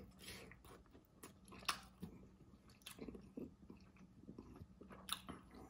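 Faint chewing of a mouthful of shrimp boil, with a few short wet clicks, the clearest about a second and a half in and near the end.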